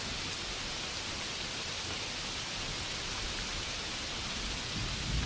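Steady rainfall, an even hiss of rain, with a low rumble swelling briefly near the end.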